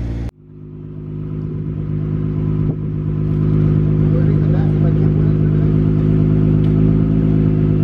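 Nissan Skyline GT-R R32's twin-turbo straight-six idling steadily, heard at the tailpipe. It comes in after a sudden cut just after the start, swells over the first few seconds, then holds even, with one brief click partway.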